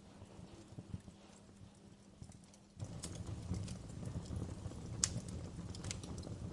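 Wood fire crackling, with irregular sharp pops and snaps over a low steady rumble. About three seconds in, the fire sound abruptly becomes louder and fuller, and the loudest single pop comes about five seconds in.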